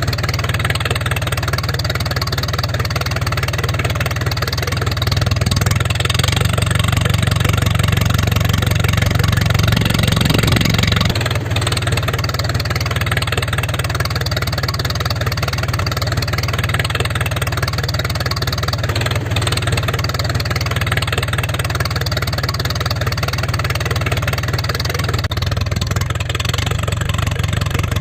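Engine running steadily at idle, a little louder for several seconds near the middle.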